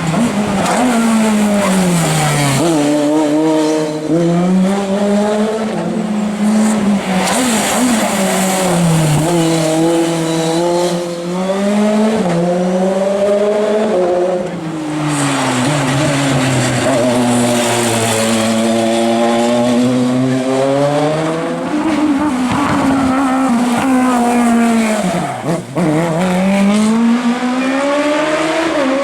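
Racing car engine run hard, its pitch climbing and falling over and over as it accelerates through the gears and eases off for the bends. There is a short drop in level about three quarters of the way through.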